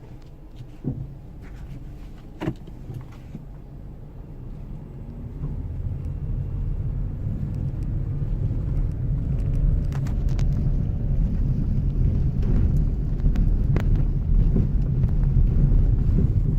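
Car driving, its low road and engine rumble building about five seconds in and holding steady, with a few sharp clicks. No knocking is heard from the steering rack, which has been cleaned and refitted.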